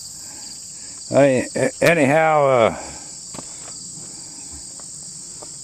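Steady high-pitched insect chorus, with a man speaking briefly about a second in.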